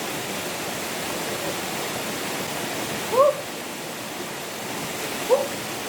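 Steady rushing of a waterfall, with two short rising calls about two seconds apart.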